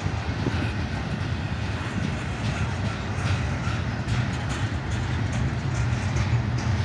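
Double-stack intermodal well cars of a freight train rolling past: a steady low rumble of steel wheels on rail, with faint clicks.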